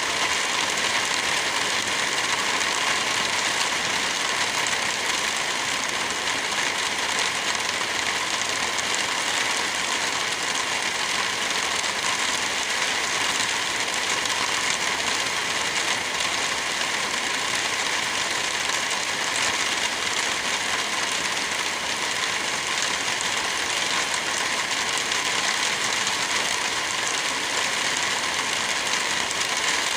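Steady rain falling, a continuous even hiss with no thunderclap.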